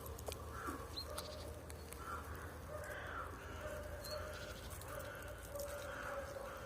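Crows cawing repeatedly, with a couple of short high bird chirps and a few faint clicks.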